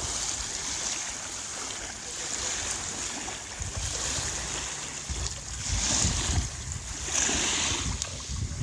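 Ocean water sloshing with wind buffeting the microphone, a steady rushing noise that swells in surges in the second half.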